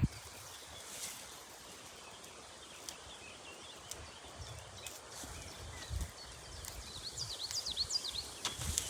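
Outdoor ambience with a faint steady background hiss and a few soft low thuds. Near the end a small bird sings a quick series of high chirps.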